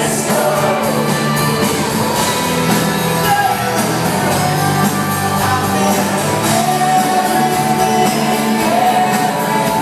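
Live pop-rock music: a band playing with a lead voice singing over it.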